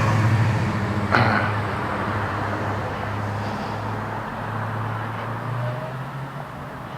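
A motor vehicle running close by, loud at first and slowly fading as it moves away, with a sharp knock about a second in.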